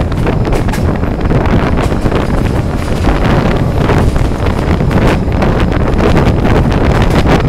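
Wind buffeting the microphone from a moving passenger train, over the steady rumble of the carriages running along the track with irregular knocks from the wheels.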